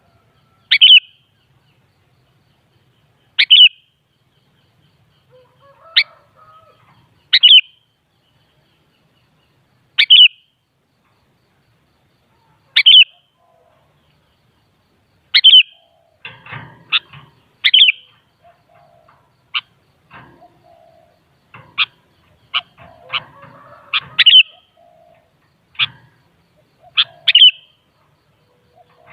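Sooty-headed bulbul (kutilang) giving short, sharp, high calls, each dropping quickly in pitch. They come about every two to three seconds at first and faster in the second half, with faint lower sounds between them.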